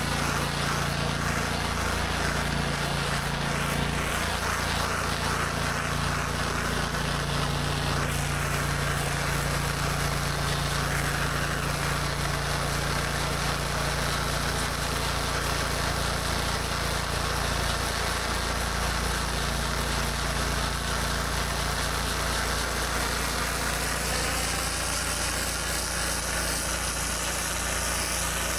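Gas-engine pressure washer running steadily under load, with the constant hiss of high-pressure water spraying on concrete.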